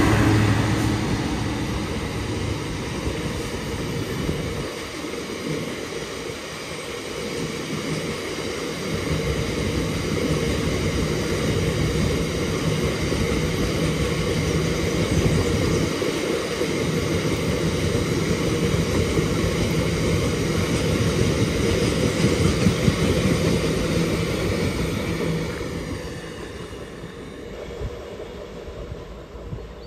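Freightliner Class 66 diesel locomotive passing, its engine loud at first and quickly fading, followed by a long freight train of open box wagons rolling steadily past on the rails. The rolling noise fades near the end as the last wagons go by.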